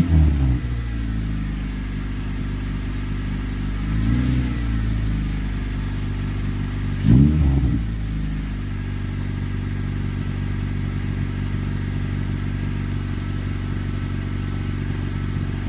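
Acura TSX exhaust through Megan Racing M-GT mufflers with the silencers removed, idling steadily with three short throttle blips: at the start, about four seconds in, and about seven seconds in, before it settles back to a steady idle.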